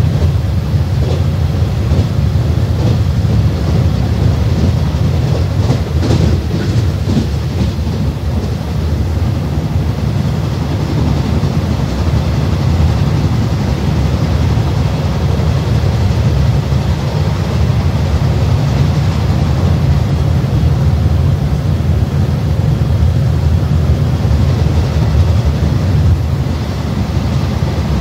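Running noise inside a JNR 165-series electric multiple-unit express car under way: a steady low rumble of wheels on rail and running gear.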